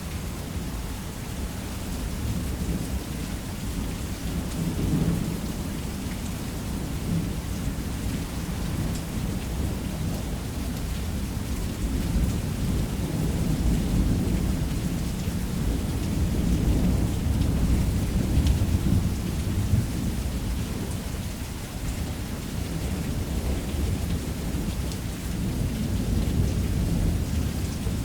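Heavy rain falling on a roof under a continuous low rumble of rolling thunder. The rumble swells in the middle and then eases off.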